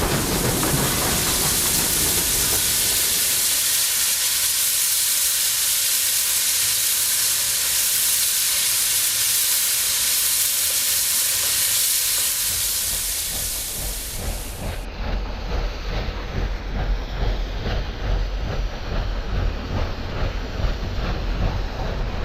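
Steam locomotive hissing loudly as steam blows off, steady for about fifteen seconds. It then cuts abruptly to a moving train: a deep rumble with a fast, rhythmic clatter.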